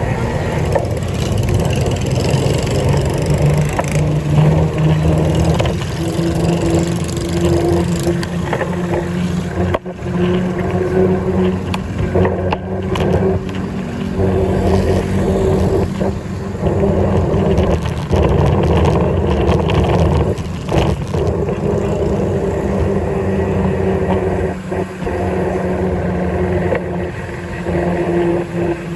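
Motor vehicle engine running continuously, its pitch shifting up and down now and then, over road noise.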